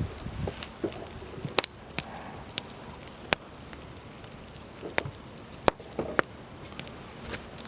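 Firewood burning under a pot, crackling with irregular sharp pops, about seven or eight in a few seconds.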